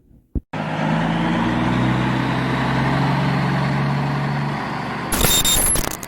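A heavy truck's diesel engine running steadily at idle, cutting in suddenly after a brief click. A louder, harsher noise with a high whistle joins about five seconds in, then everything stops abruptly.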